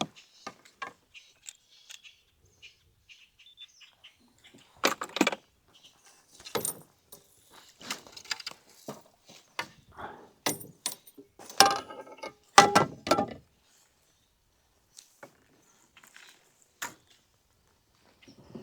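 Scattered clinks, clicks and short rattles of gear being handled and rummaged through, in clusters with quiet gaps between: an angler searching a kayak for a fish scale.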